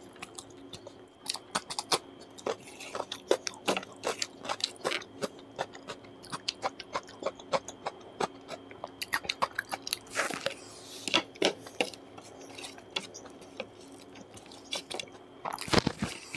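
Close-miked eating: chewing and biting with a dense stream of quick wet mouth clicks and short crunches, as rice with curry and raw cucumber slices are eaten by hand.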